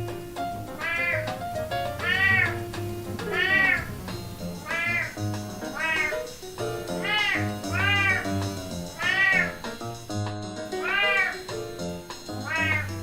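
A cat meowing over and over, about ten drawn-out meows roughly a second apart, each rising and falling in pitch. Background music plays underneath.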